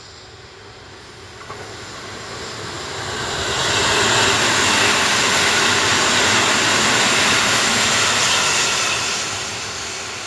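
Sanyo Electric Railway electric train passing close by on the main line: the rush of wheels on rails builds over the first few seconds, stays loud for about five seconds as the cars go by, then fades near the end.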